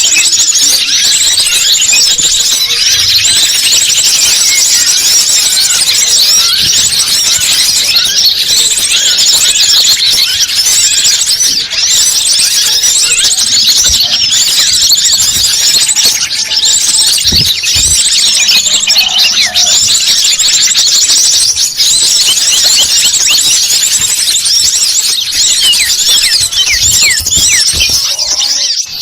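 Dense, unbroken high-pitched chirping and twittering of many small birds, played as a bird-lure call recording, with rapid overlapping notes.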